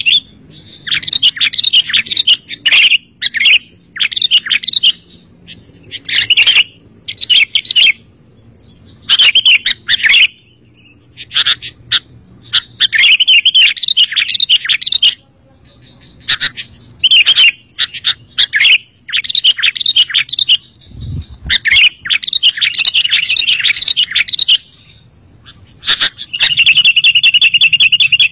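Sooty-headed bulbul (kutilang) song: bright chirping and warbling phrases in repeated bursts of one to two seconds, with short pauses between them. There is a brief low thump about 21 seconds in.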